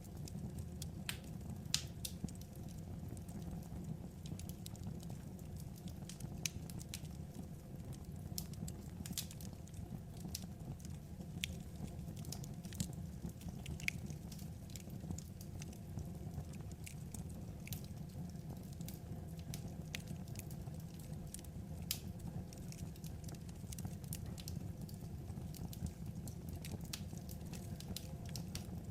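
Burning logs in a wood fire, crackling: scattered, irregular sharp pops and snaps over a steady low rumble of the flames.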